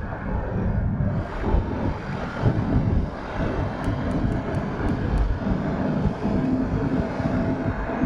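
A moving vehicle's low, uneven rumble with wind buffeting the microphone while riding.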